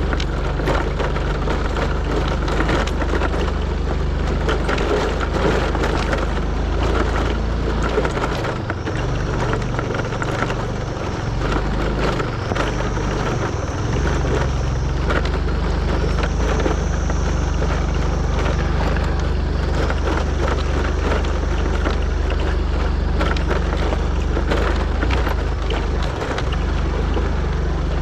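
A motor vehicle engine running steadily while driving a rough, off-road dirt track, with constant rattling and knocking from the bumpy ride.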